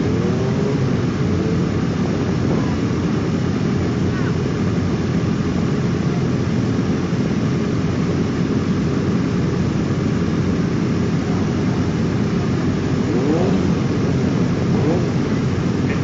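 Motorcycle engines idling, a steady low drone.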